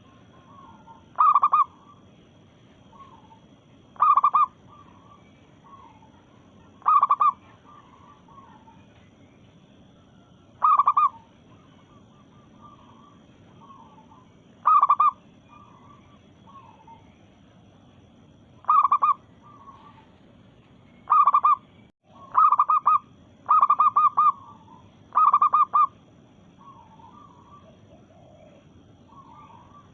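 Zebra dove (perkutut) calling: loud half-second calls repeated every three to four seconds, then a quicker run of four, with softer cooing notes in between.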